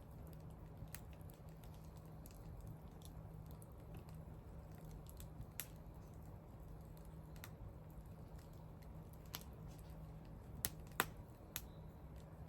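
Wood fire crackling softly, with scattered irregular pops and a few sharper snaps near the end.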